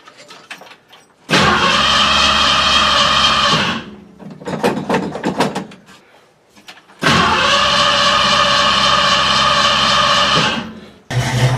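Classic 1968 Ford Mustang V8's starter motor cranking twice for a few seconds each, the engine not firing because the car is out of gas. Near the end the engine catches and starts running.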